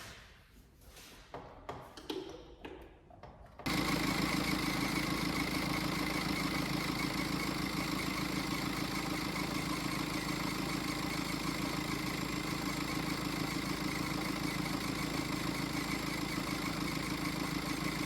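BMW X5 F15 diesel engine running steadily at idle, with a steady high whistle from the accessory belt drive; the owner suspects a worn belt tensioner or idler pulley. It comes in suddenly a few seconds in, after some quiet handling noises.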